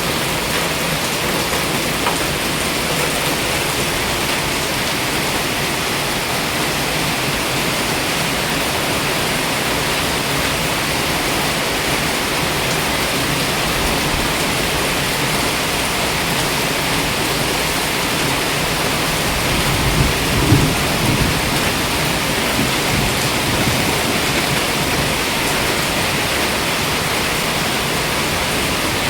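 Heavy tropical rain falling steadily, a dense even hiss of downpour, with a brief low rumble about twenty seconds in.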